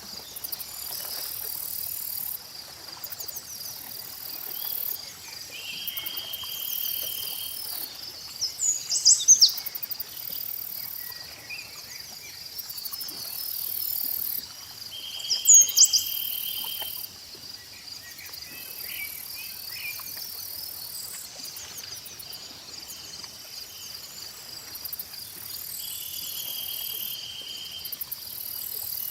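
Nature ambience of a steady chorus of crickets and other insects, with recurring short buzzy trills. Quick bird chirps come twice, about nine and fifteen seconds in, and are the loudest sounds.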